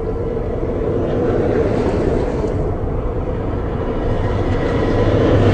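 Highway traffic with a heavy truck's engine and tyres drawing nearer, slowly growing louder toward the end.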